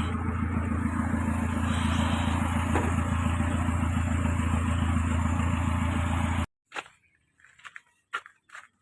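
Kia Picanto engine running steadily, then cut off abruptly about six and a half seconds in; a few short, faint sounds follow.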